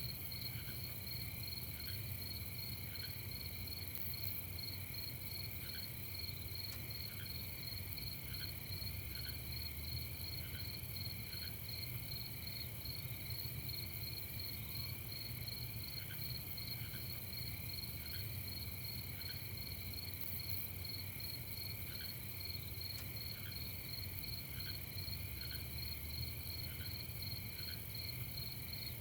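Night chorus of crickets chirping without a break in high, rapidly pulsing trills, with a lower short note repeating every second or so. A low rumble runs underneath.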